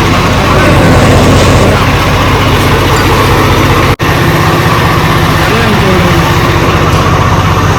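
Tractor diesel engine running steadily and loudly, with a brief dropout about four seconds in.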